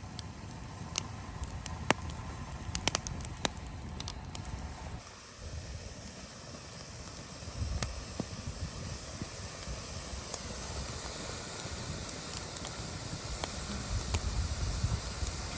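Crackling and hissing of an open cooking fire, with sharp pops scattered through the first few seconds.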